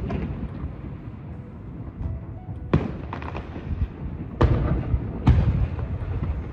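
Aerial firework shells bursting, with a low rumble carrying on between the blasts. A sharp bang comes a little under three seconds in, followed by a few lighter cracks. Two more loud bangs come close together near the end, each trailing off.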